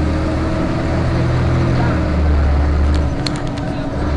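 Interior of a Van Hool A320 city bus on the move: the engine's low, steady drone with road noise. About three seconds in the drone briefly drops while a few sharp clicks or rattles sound, then it picks up again.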